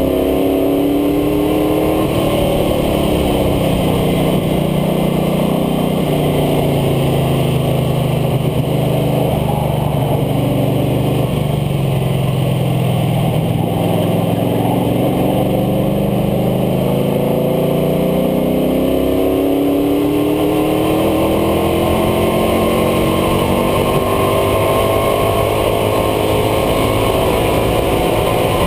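International Harvester Scout II engine at track speed, heard from low on the front air dam with a constant rushing noise. The engine pitch sits low through the middle, then climbs steadily over the last ten seconds as it accelerates down the straight.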